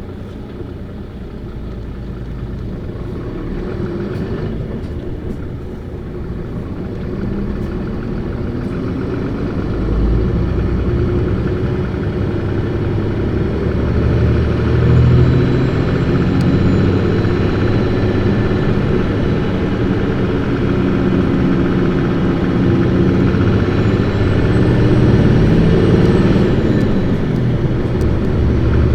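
Diesel engine of a 2008 Isuzu Erga PKG-LV234Q2 city bus accelerating hard at high revs. The engine note climbs in pitch and loudness, drops back briefly a few times and then climbs again, and grows steadily louder overall.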